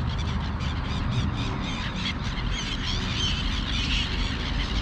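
Birds calling, many short high chirps and calls, busiest in the middle, over a steady low outdoor rumble.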